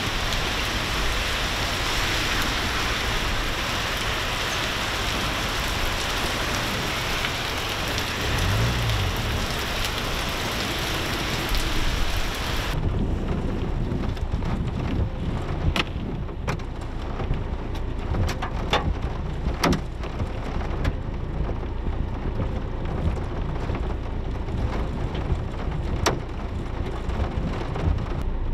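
Heavy rain and hail pelting down in a dense, loud hiss. About 13 seconds in, the sound changes abruptly to a duller rush with many sharp separate clicks of hailstones striking.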